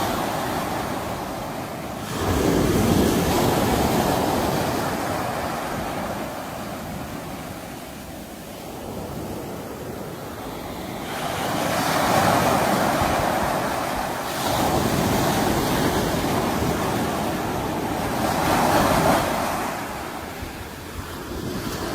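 Sea waves breaking and washing up on a shore. The surf swells and falls back in slow surges several seconds apart.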